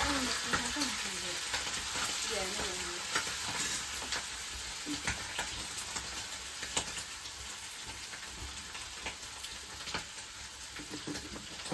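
Chicken innards sizzling as they fry in a pan, with a steady hiss and scattered clicks of a utensil stirring them.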